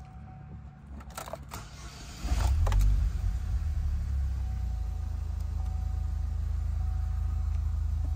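2008 Pontiac Solstice GXP's turbocharged 2.0-litre four-cylinder being started, heard from inside the cabin: a few clicks, then the engine catches a little over two seconds in with a short flare of revs and settles into a steady idle.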